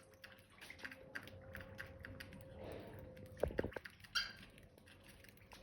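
Budgies making scattered light clicks and taps, with a short high chirp about four seconds in, over a faint steady hum.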